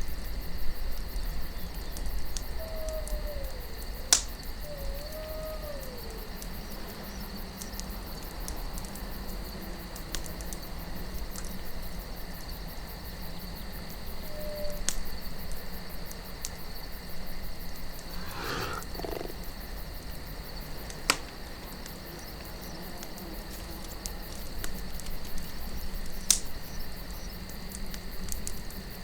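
Campfire burning under a steady low wind, with a few sharp pops from the fire and a constant high insect drone like crickets. A few faint calls gliding down in pitch come a few seconds in.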